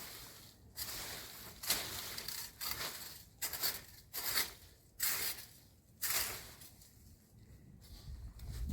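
Footsteps through vegetation outdoors, short rustling, crunching steps about once a second.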